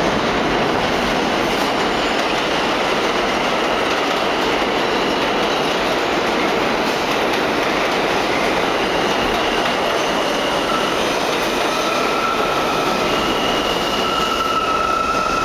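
New York City subway train moving on the rails, with steady running noise and clatter; high-pitched wheel squeal sets in about halfway through and grows stronger near the end.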